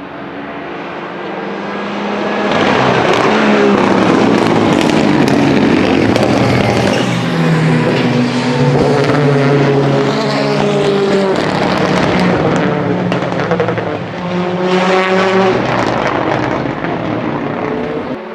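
Rally car engines at high revs on track, growing loud a few seconds in, the pitch rising and falling through gear changes and braking, with a brief drop about fourteen seconds in before another car or the same one pulls hard again.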